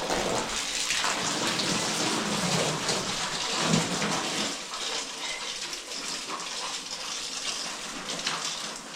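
Water gushing steadily from a household water pipe under repair, a dense hiss, with some lower sound underneath that drops away after about four and a half seconds.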